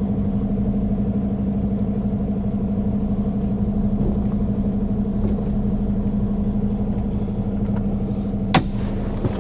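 Semi truck's diesel engine running steadily at low revs with a low, even hum, and a single sharp click near the end.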